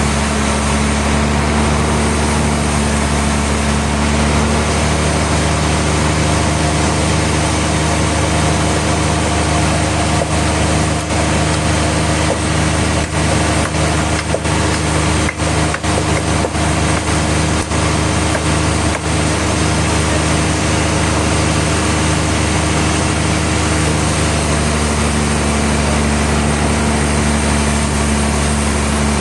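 Sawmill machinery engine running at a steady pitch. Around the middle there is a run of brief dips and breaks in the sound.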